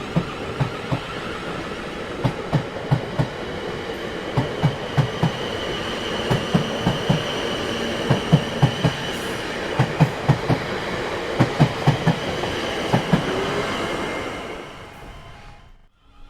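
Train rolling past, its wheels clacking over the rail joints in quick groups of knocks over a steady rumble, with a faint high wheel squeal; the sound fades away near the end.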